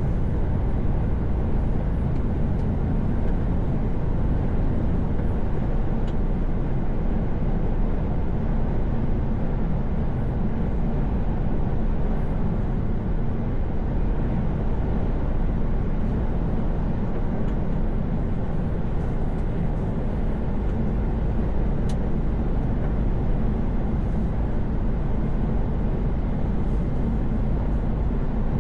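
Truck cruising at steady motorway speed: an even, low rumble of engine and tyre noise heard inside the cab.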